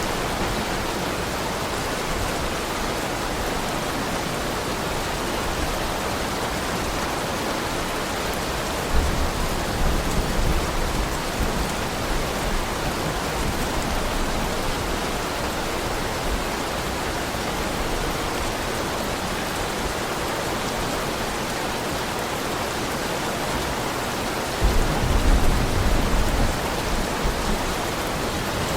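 Heavy rain falling steadily as an even hiss. Low rumbles of distant thunder come about a third of the way in and again near the end.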